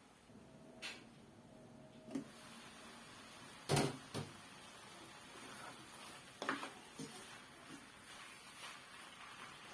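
A few scattered knocks and clicks at uneven intervals, the loudest a quick double knock a little before halfway, over a low background hiss.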